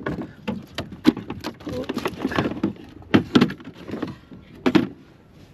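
Irregular knocks and thumps against a canoe hull, uneven in strength, with a few louder ones about a second in, around three seconds and near five seconds.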